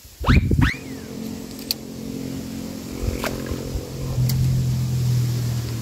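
A small engine drones steadily, growing a little louder about four seconds in. A brief sliding, pitched sound comes at the very start, with a few faint clicks.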